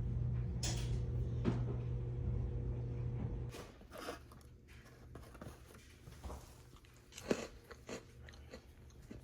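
A steady low hum that stops about three and a half seconds in, with a series of soft crunches and clicks throughout, the sharpest a little after seven seconds.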